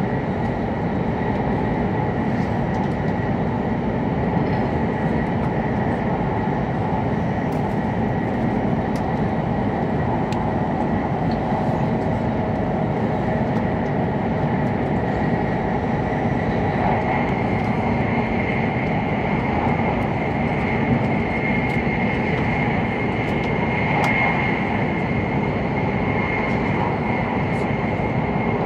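Steady running noise of an E7-series Shinkansen train at speed, heard from inside the passenger cabin: a dense, even rumble with a thin high whine that grows louder in the second half.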